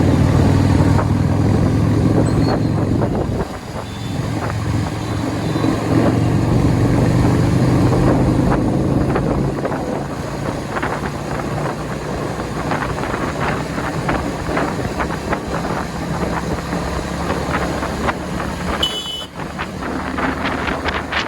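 Motorcycle engine running at road speed, with wind buffeting the microphone and road noise; the engine hum is strongest in the first half, and a brief high beep sounds about nineteen seconds in.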